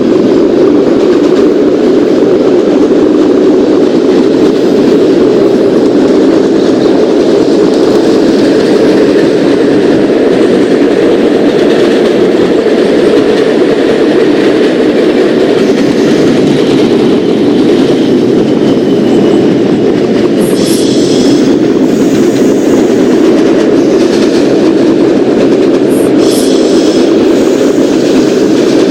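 Subway train running along the track with a loud, steady rumble. Two brief high-pitched wheel squeals ring out, about two-thirds in and again near the end.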